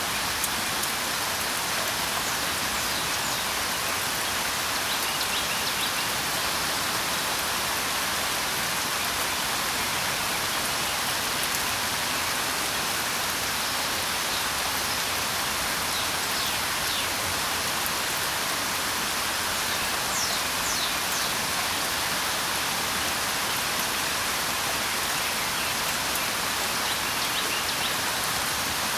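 Steady rain falling, an even hiss with no break, with a few faint, brief bird chirps above it now and then.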